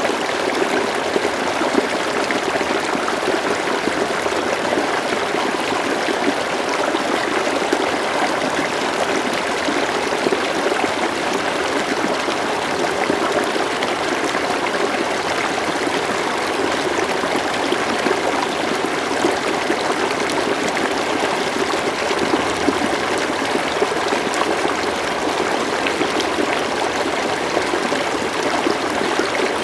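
River water flowing steadily, an even rushing with fine trickling and babbling.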